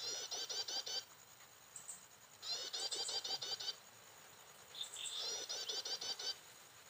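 Prinia (ciblek) call: a fast string of about six sharp chirps a second, in bursts about a second long that repeat almost identically every two and a half seconds, like a looped lure call used in prinia trapping.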